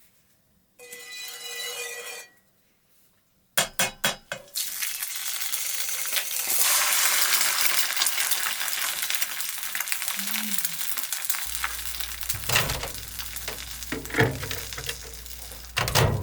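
A brief metallic ring about a second in and a few clicks, then food sizzling loudly in a hot pan from about four seconds in, with occasional knocks of a utensil against the pan.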